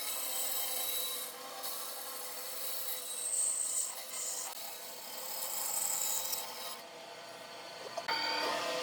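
A tool scraping and rasping against wood, with brief high squeals about three and a half and six seconds in; it eases off about seven seconds in and picks up again near the end.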